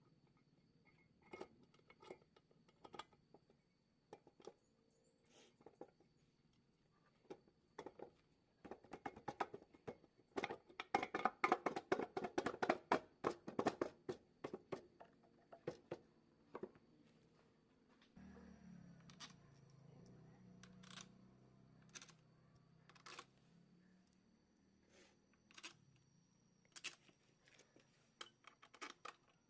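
Metal engine parts and hand tools clicking and tapping while a motorcycle engine is put together, with a quick run of louder clinks a third of the way in. About two-thirds of the way in, a low hum sounds for several seconds.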